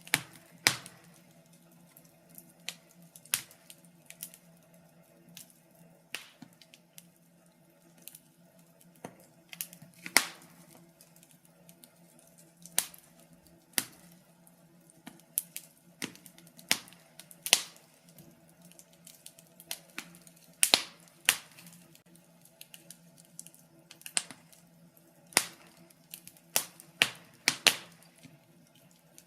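Wood fire burning in a fireplace, crackling with irregular sharp pops and snaps, sometimes several in quick succession, over a faint steady low hum.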